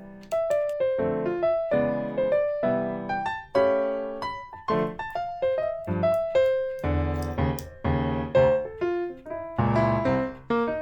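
Background music: a gentle piano piece, single notes and chords struck one after another and left to ring out.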